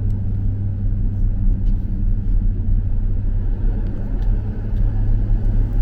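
Car cabin road noise while driving: a steady low engine and tyre hum.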